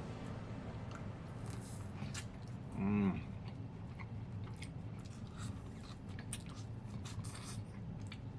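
Close-up eating sounds of a man eating a Cajun seafood boil: chewing and mouth clicks, with a short hummed "mm" about three seconds in.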